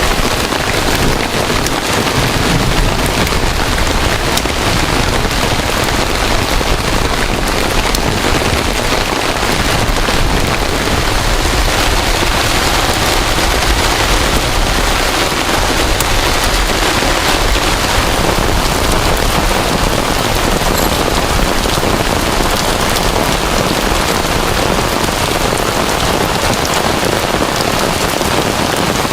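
Heavy rain pouring steadily: a loud, dense, even hiss of drops.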